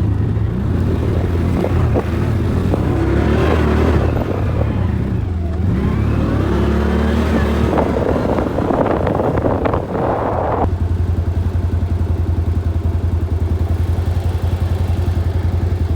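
Quad bike (ATV) engine running on the move, with clattering noise over it; about two-thirds of the way in the clatter drops away suddenly and the engine carries on as an even, fast pulsing.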